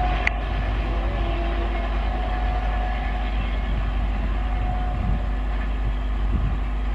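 Indian Railways express passenger train rolling away along the track: a steady rumble of wheels on rail, with a faint ringing tone that comes and goes. A single sharp click sounds just after the start.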